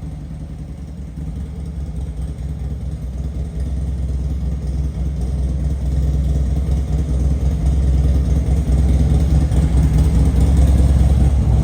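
A 2016 Harley-Davidson Road Glide's Twin Cam 103 V-twin idling steadily through its aftermarket 2-into-1 exhaust, growing gradually louder.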